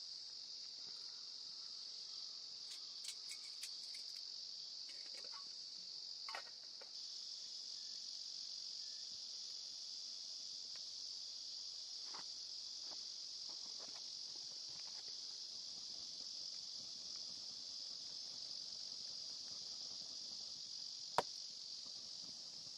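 A steady, unbroken, high-pitched insect chorus, with a few faint clicks a few seconds in and one sharp click near the end.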